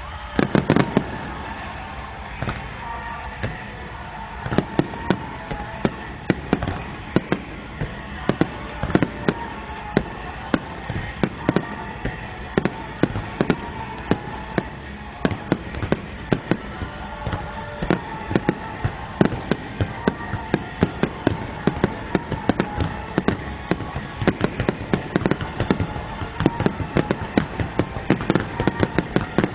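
A dense, continuous barrage of aerial fireworks: sharp bangs several times a second with crackling between them, over music playing.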